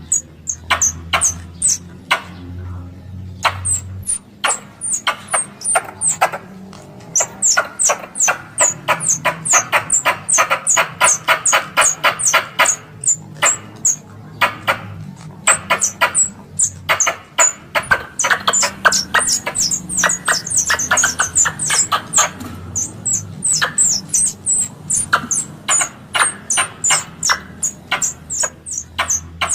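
Squirrel calling: rapid runs of sharp, high chirps, several a second, each dropping quickly in pitch. The runs come in bursts broken by short pauses. This chattering call is used as a lure to draw squirrels in for hunting.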